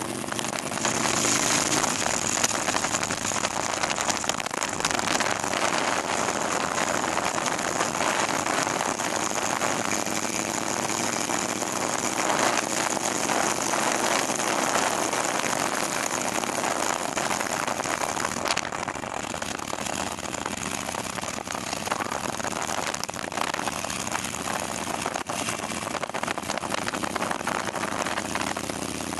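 Motorcycle riding at speed: wind rushing over the microphone as a loud, steady noise, with the engine running underneath.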